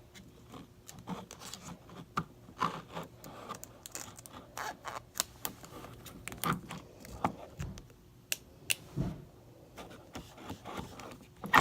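Adhesive tape and a card being handled while the tape is pressed across a firework rocket: scattered small clicks, scratches and rustles.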